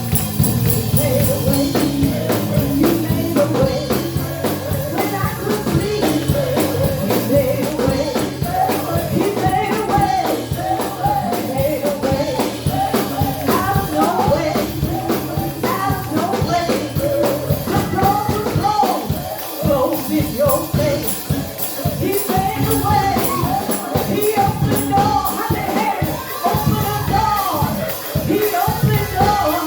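Gospel praise music: singing with a band, tambourine and drums keeping a steady beat.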